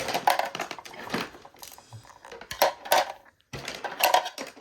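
Small hard toy train set pieces clattering and clicking as they are handled and rummaged through, in quick irregular clicks with a few louder knocks.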